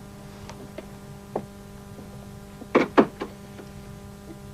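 A door being shut: a light click, then a short cluster of three sharp knocks about three seconds in, over a steady mains hum.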